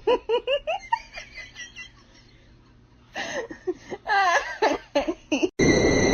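A person laughing in quick, repeated bursts, then laughing again after a short pause. Near the end a loud, steady hiss begins abruptly.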